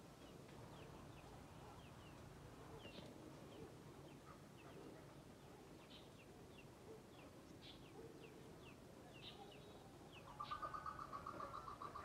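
Faint, scattered chirps of small birds, short high notes that drop in pitch, repeating every second or so. About ten and a half seconds in, a louder rapid pulsing trill starts and keeps going.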